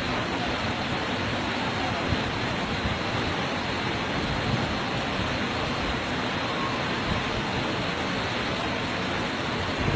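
Steady, even hiss of heavy rain during a flood, with a few brief low thumps.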